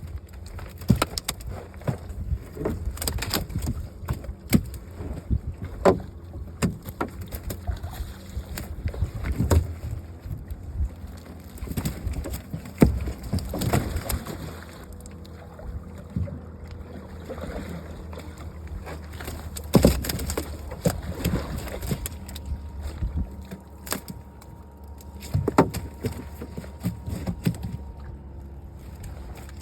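Irregular knocks and thumps on a boat, with water sloshing and a steady low hum beneath, as nets are worked for carp and buffalo fish.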